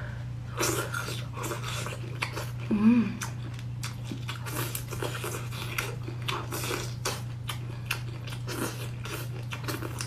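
Close-up mouth sounds of eating: biting and chewing with many quick wet clicks and crackles, and a short hummed 'mm' about three seconds in, over a steady low hum.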